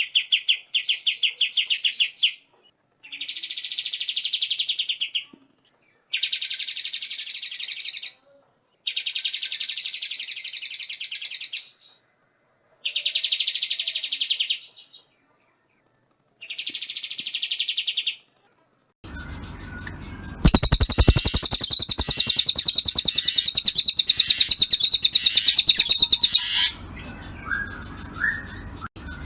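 A songbird sings a series of rapid, buzzy trills, each about two seconds long with short pauses between them. About two-thirds of the way in, a louder, harsher pulsed song with crackling background noise starts, then stops abruptly and gives way to softer scattered calls.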